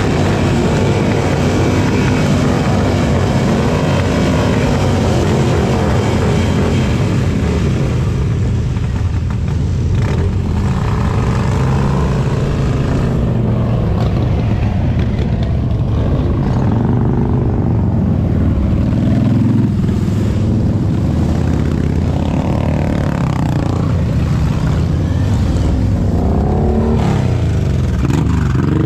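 A group of motorcycles riding out one after another, their engines running loud. Pitch rises and falls in the second half as single bikes pass close.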